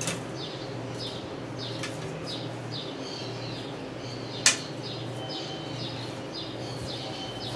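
Small birds chirping over and over in the background, short high chirps that sweep downward, over a steady low hum. A single sharp knock about halfway through stands out as the loudest sound.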